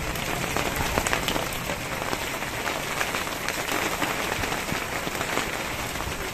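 Steady rain falling on a wet paved road: an even hiss with a dense patter of individual drops.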